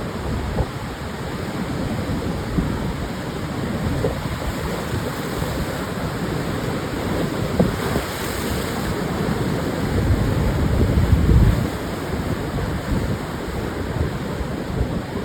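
Pacific surf washing onto a sandy beach, a steady rush of breaking waves, with wind buffeting the microphone in low rumbling gusts. The strongest gust comes about ten seconds in.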